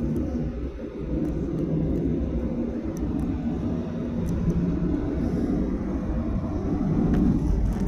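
Cabin noise inside a Boeing 737-800 airliner: a steady low rumble of engines and airflow, with a few faint clicks scattered through it.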